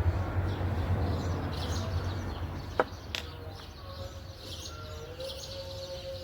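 Birds chirping over a low rumble, with a sharp click a little before halfway. From about two-thirds of the way through, a steady humming tone runs under the chirps.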